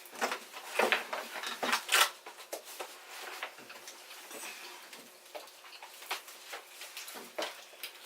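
Hands breaking open boiled seafood: scattered cracks, snaps and clicks of shells being pulled apart. The sounds come thickest in the first two seconds, then thin out to a few soft ticks.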